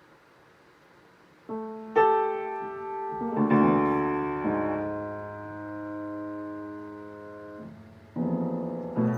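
Piano keys pressed at random by a kitten's paws: clashing clusters of notes struck together at uneven moments, some held and ringing on for a few seconds, then two more clusters near the end.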